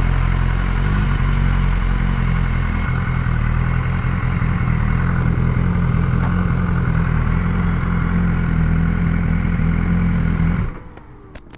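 BMW S1000R inline-four engine running steadily at cruise while being ridden, with wind and road noise. It cuts off abruptly near the end, leaving quieter background sound and a couple of faint clicks.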